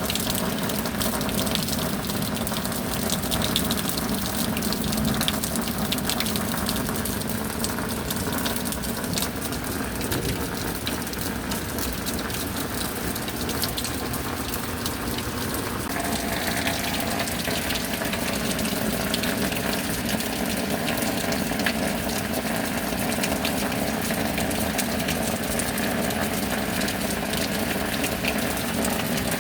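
Heavy tropical downpour with water gushing steadily; the sound's character shifts slightly about halfway through.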